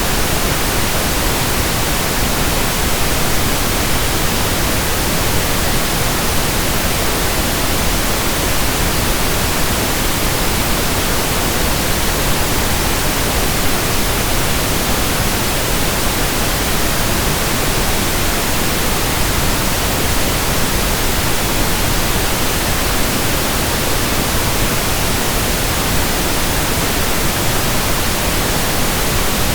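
Steady pink noise: an even, unchanging hiss spread across all pitches, with nothing else in it.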